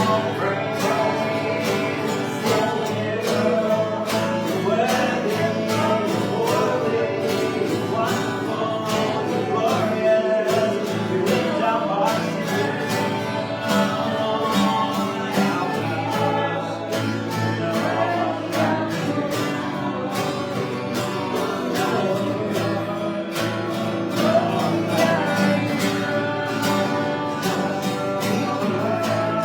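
Worship song: singing with guitar accompaniment and a steady strummed rhythm.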